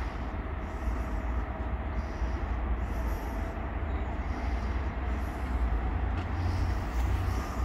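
A train moving through the station, giving a steady low rumble.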